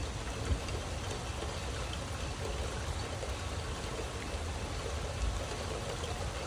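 Heavy rain falling steadily, a constant rush of pouring and splashing water with a low rumble underneath.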